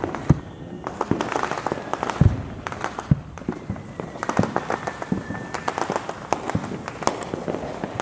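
Neighbourhood fireworks going off all around: a dense, irregular string of bangs and pops, some sharp and close, others distant, with the strongest bangs near the start and about two seconds in. A faint thin whistle runs for a few seconds in the middle.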